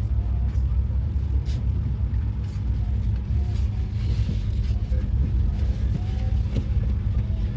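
Passenger train running, a steady low rumble heard from inside the coach, with faint passenger voices in the background.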